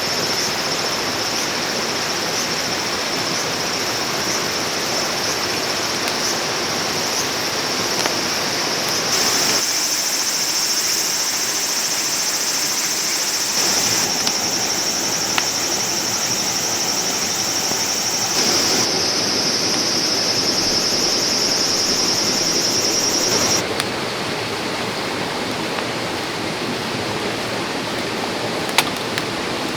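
A river stream flowing steadily, a constant rushing of water, with a steady high-pitched buzz above it. The sound shifts abruptly several times.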